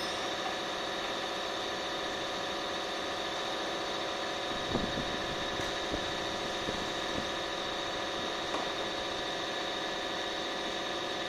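Steady machine hum with several fixed tones that do not change in pitch, with a few faint knocks or clicks in the second half.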